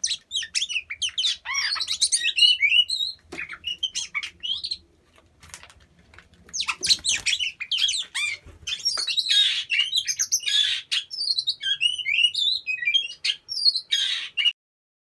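Oriental magpie-robins (kacer) calling in quick, varied chirps mixed with harsh rasping calls. The calling drops out about five seconds in, resumes, and stops suddenly near the end.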